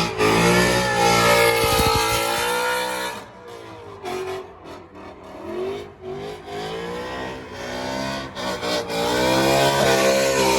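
Drift car engine revving hard with the pitch rising and falling. It is loud for about the first three seconds, drops back quieter and uneven, then pulls loud again about eight seconds in.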